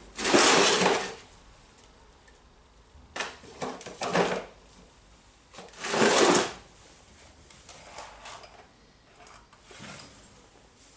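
An aluminium cylinder being forced down over the rotary hammer's tool holder to push a spring ring into its groove, in three scraping, grinding pushes of about a second each, near the start, around three to four seconds in and around six seconds in, with fainter scrapes after.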